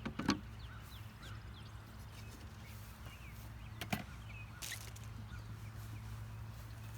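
Honeybees at an open hive giving a steady low hum, with two sharp knocks from wooden hive parts being handled and a short hiss a little after halfway.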